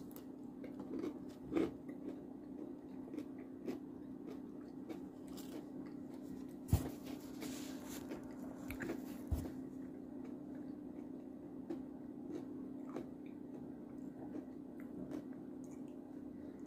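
A person biting and chewing a chocolate peanut butter cup with crunchy potato chip pieces in it, faint crunching and small mouth clicks over a steady low hum. One sharper knock comes about seven seconds in.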